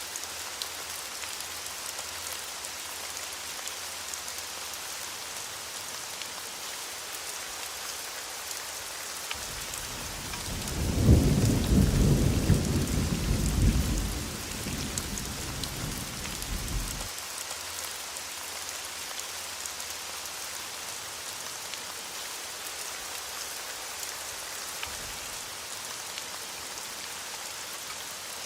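Steady rain falling, with one rumble of thunder about ten seconds in that swells, peaks and dies away over some seven seconds.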